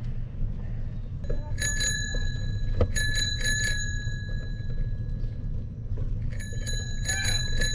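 Bicycle bell rung in quick flurries: a few dings about one and a half seconds in, four more around three seconds, then a longer run of rapid dings near the end, the ring hanging on between flurries.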